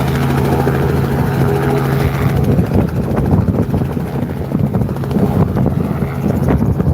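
Helicopter running loud: a steady hum of several low tones for about the first two and a half seconds, then a rapid, choppy beat.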